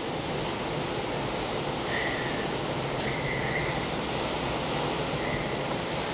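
Steady rushing hiss of blizzard wind outdoors, with a faint short whistle three times.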